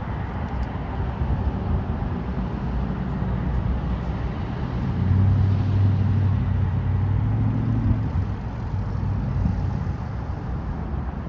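Road traffic noise, with a motor vehicle's engine hum growing louder about five seconds in and fading away about three seconds later.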